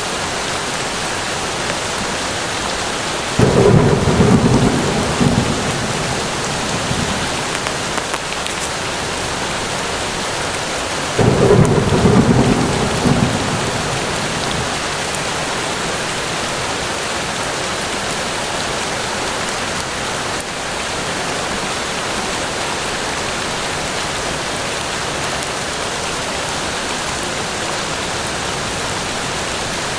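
Steady rain falling in a forest, with two rumbles of thunder, the first about three seconds in and the second about eleven seconds in, each dying away over a few seconds.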